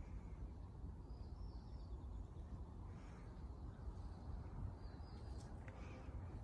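A few faint, short bird calls over a steady low background rumble.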